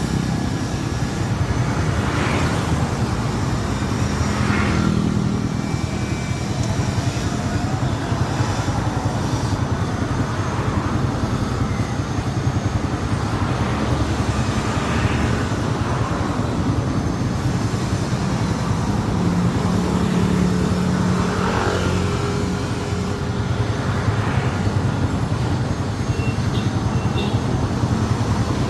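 Steady low engine rumble with a few brief rises and falls, without a break.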